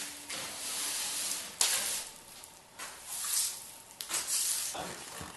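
Hand sanding of the steel fireplace, a series of scraping strokes coming roughly once a second.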